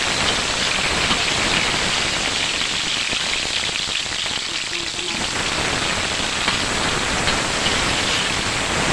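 Sliced onion and ginger sizzling and crackling steadily in hot oil in a wok.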